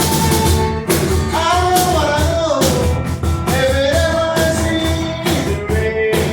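Acoustic band music: two acoustic guitars and a cajon keeping a steady beat, with a voice singing long held and sliding notes.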